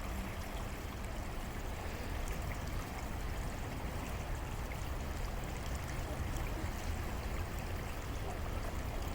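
Creek water running steadily over a shallow bed.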